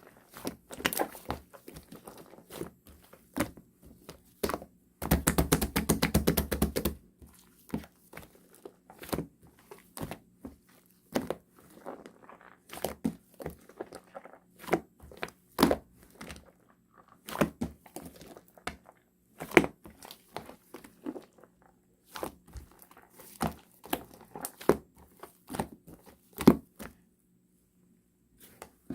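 Fluffy cloud slime being squished and stretched by hand, making irregular soft pops and crackles, with a quick run of rapid squishing clicks about five seconds in.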